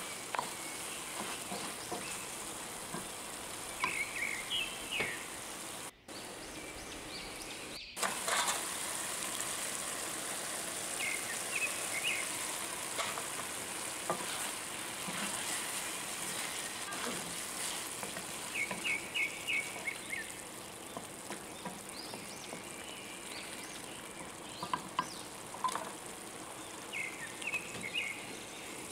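Beef and vegetables frying in a wok: a steady sizzle with frequent small pops and crackles, broken off abruptly twice about six and eight seconds in.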